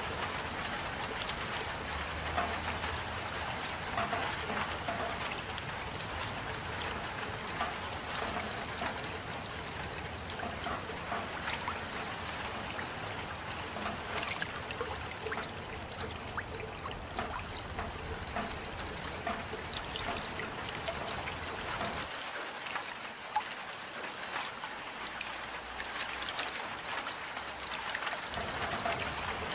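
Steady rain falling, with many small drop taps and water trickling.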